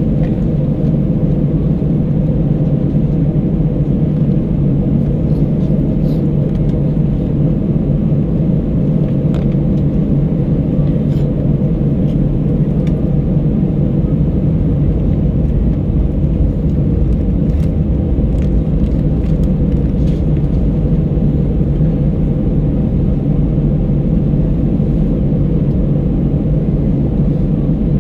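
Steady roar of an Airbus A319 cabin, the jet engines and rushing airflow heard as an even, deep rumble that does not change.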